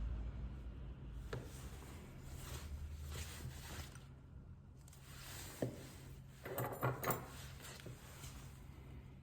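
Small clicks and taps from tools and phone parts being handled during an iPhone battery replacement, the loudest cluster a little past the middle, over a steady low hum.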